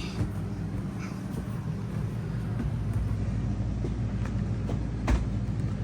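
Coleman Mach 15 rooftop RV air conditioner running, a steady low hum. One sharp click about five seconds in.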